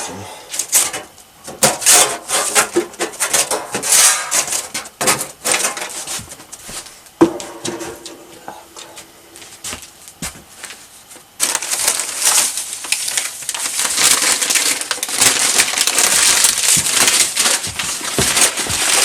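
Split firewood being handled and laid in a wood stove: a run of wooden knocks and clatters, with one sharp ringing knock about seven seconds in. From about eleven seconds on comes a continuous dense crackling rustle.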